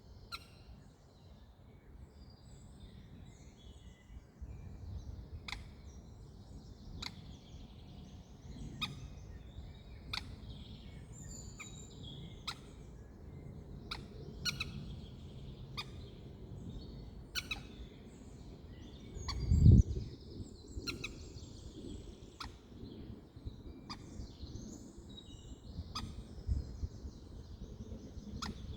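Small birds chirping, with short, sharp high calls repeated every second or two over a low rumble of wind. A single loud low thump comes about twenty seconds in.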